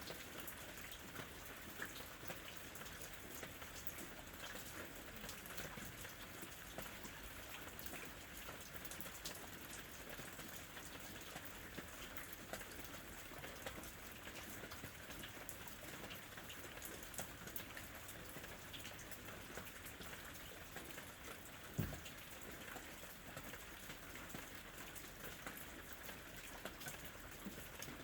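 Ambient rain: a steady patter of raindrops with many small drip clicks, and one louder thump about three-quarters of the way through.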